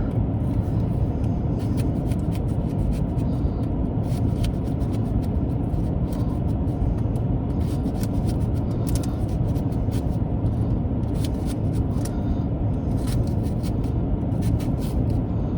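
A knife cutting an onion into cubes, a run of short sharp clicks at irregular spacing, over a steady low rumble.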